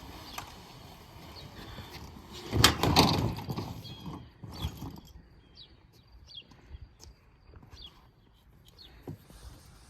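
Knocking and clattering as the raft is handled on an aluminium kayak cart, loudest for about a second some two and a half seconds in. After that come scattered small knocks and short bird chirps.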